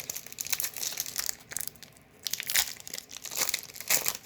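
A Magic: The Gathering draft booster pack's foil wrapper crinkling and being torn open, a dense irregular run of crackles with several louder crunches.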